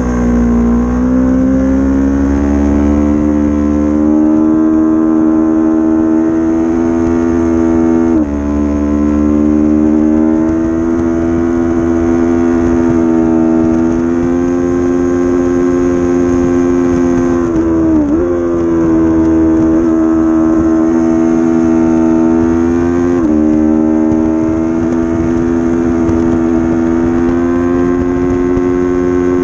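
Onboard sound of a 300-class race motorcycle's engine held high in the revs under racing load, its pitch climbing slowly as it pulls, with a sudden drop in pitch about 8 seconds in and again near the end as it shifts up, and a quick dip and rise in pitch around 18 seconds. Wind rumbles on the microphone underneath.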